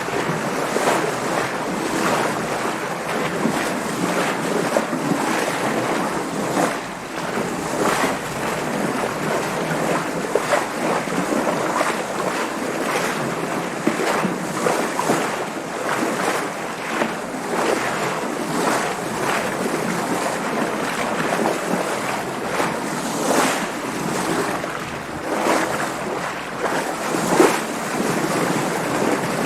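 Water splashing and sloshing around a sailing boat under way in waves, with a steady rush of wind. Frequent short splashes rise over a constant hiss.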